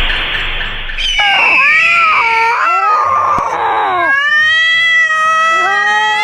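A cat yowling loudly: a harsh noisy burst, then wavering meows that bend up and down in pitch, ending in one long drawn-out yowl.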